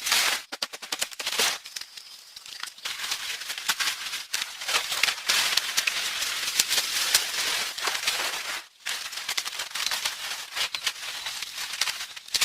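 Dense crackling and rustling full of sharp clicks, with a brief break about three-quarters of the way through.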